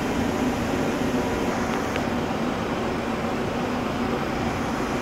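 ICE high-speed train power car standing at the platform with its cooling fans and auxiliary equipment running: a steady hum with a low tone.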